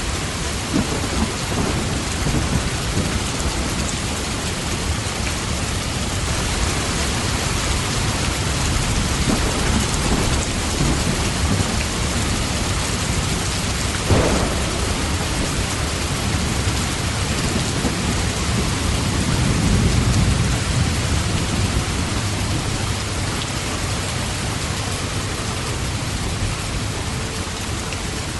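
Steady heavy rainfall with thunder rumbling, the rumble swelling about two-thirds of the way through.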